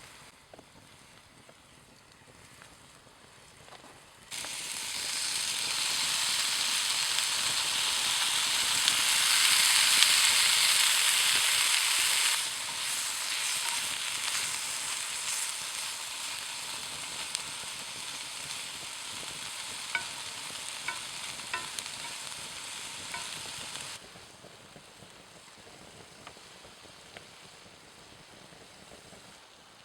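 Food frying and sizzling in a pan over a campfire. The sizzle starts suddenly about four seconds in and is loudest for several seconds. It then settles to a softer sizzle with a few small pops and cuts off abruptly after about twenty seconds.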